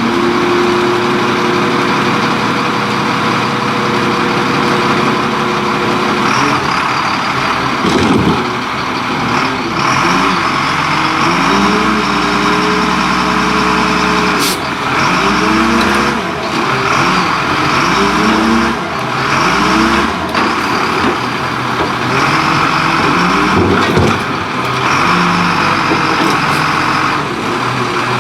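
Diesel engine of a Leach Curbtender rear-loader garbage truck, revving up and settling back again and again. A few short sharp sounds break in, one about eight seconds in and others later.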